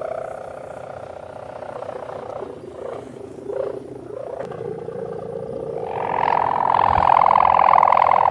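Kite hummer (sendaren) droning as the kite flies in strong wind: a steady buzzing hum that swells louder and higher in pitch about six seconds in.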